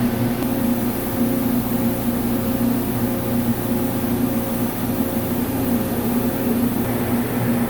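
CNC lathe running with a steady machine hum and an even hiss, with no change in pitch or level.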